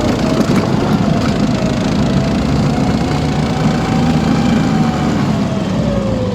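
Motorized snow tow's engine running under throttle as it drives off, its pitch climbing a little, holding, then easing off near the end.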